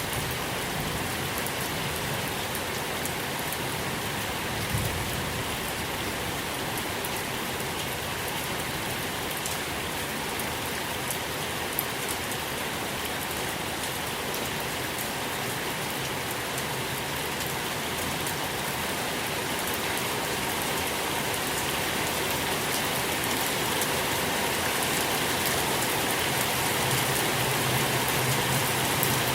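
Steady rain falling, with fine drop ticks and a few brief louder patters, growing slightly louder near the end.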